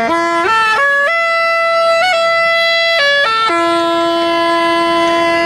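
A single wind instrument playing a slow melody of held notes: it climbs in steps to a high note over the first second, holds it with a quick upward flick about two seconds in, then steps back down to a lower note held to the end.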